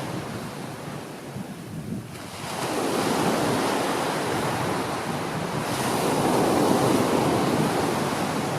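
Small waves washing onto a beach, the surf swelling in twice, about two and a half seconds in and again about six seconds in.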